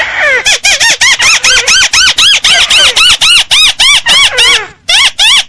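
Crake ('burung tikusan') call played as a bird lure: a rapid run of loud, harsh arched notes, about four a second, each rising then falling in pitch, with a short break near the end before the series resumes.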